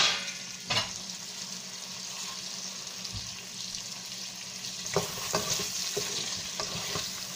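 Sliced potatoes sizzling steadily in hot oil in a pot, with a spatula knocking and scraping against the pot as they are stirred: once near the start, again just under a second in, and a run of knocks from about five seconds in.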